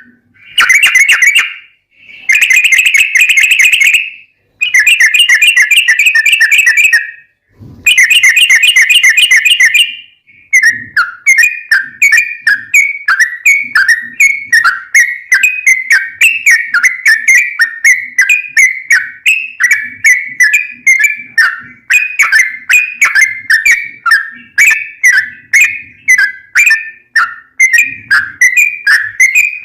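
Yellow-vented bulbul (trucukan) singing: four long rapid-fire trills in the first ten seconds, then a long run of short falling notes, about two to three a second.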